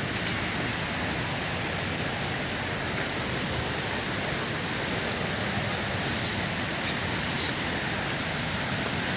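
Steady rush of a waterfall: an even roar of falling water with no breaks.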